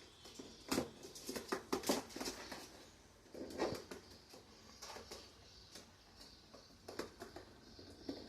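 Pet lovebirds moving about: irregular scratchy taps and clicks, busiest in the first couple of seconds and sparser after.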